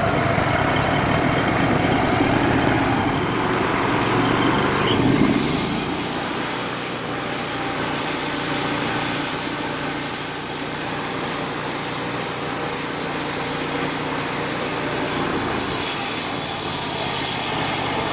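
Wood-Mizer LT35HD band sawmill's engine idling after a cold start, then about five seconds in it revs up and the band blade engages, running steadily with a high hiss.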